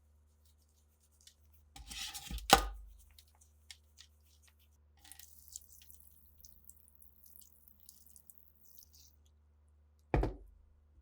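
Hard objects being handled and knocked on a work surface: a short clatter of clicks ending in one sharp knock a couple of seconds in, faint light ticks and scraping after it, and another knock near the end.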